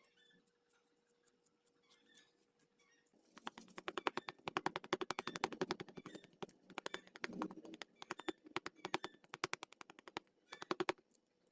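A rapid run of sharp clicking taps, many per second, starting about three seconds in with short pauses and stopping near the end; faint scattered clicks before it.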